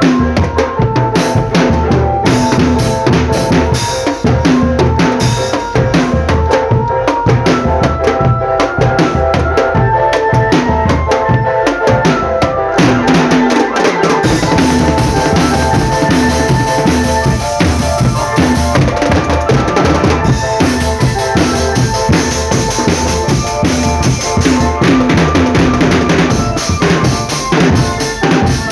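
Marching drum band playing a steady beat on snare and bass drums, with a melody of held notes over it; the sound grows brighter about halfway through.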